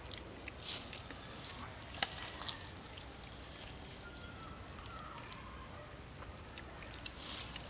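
Raw duck meat being torn apart by hand and chewed: scattered small wet clicks and smacks over a steady background hiss, with a sharper click about two seconds in.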